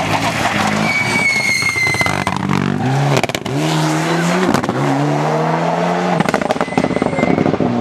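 Rally car accelerating hard, its engine note climbing and dropping with each gear change, with a brief high tyre squeal about a second in.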